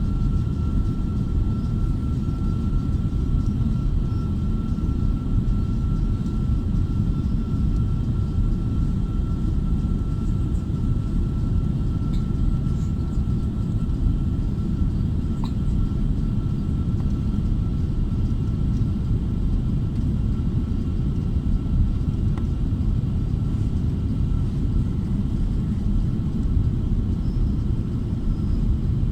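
Airliner cabin noise: a steady low rumble of engines and airflow, with a faint, thin, steady whine above it.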